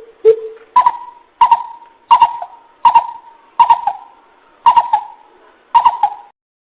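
Coucal calling: a series of deep hoots, two lower ones followed by about seven slightly higher ones, roughly one and a half a second, stopping about six seconds in.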